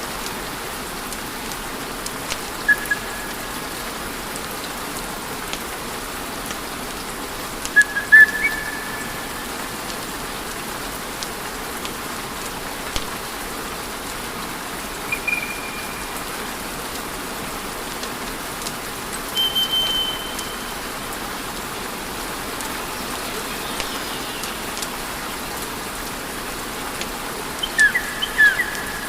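Wood fire burning in a fireplace: a steady hiss with scattered crackles and pops, and several brief high whistles from the burning wood, the loudest about eight seconds in and a few more near the end.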